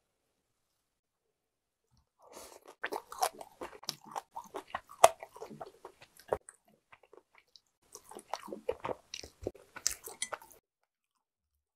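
Chewing a mouthful of rice and Korean side dishes: wet, crunchy mouth sounds with sharp clicks, starting about two seconds in and coming in two stretches with a short pause between.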